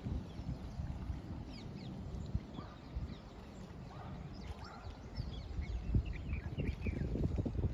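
Birds chirping now and then in short high calls over a steady low rumbling noise.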